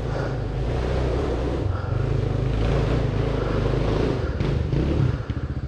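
Dirt bike engine running under throttle with the pitch wandering up and down, then dropping to a steady, evenly pulsing idle about five seconds in.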